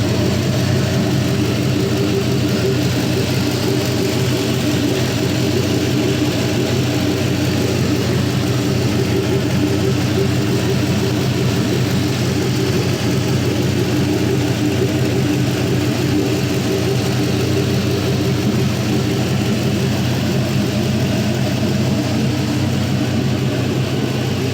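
4.8L Gen III LR4 V8 running steadily on an engine test stand, still warming up with the coolant around 150 °F.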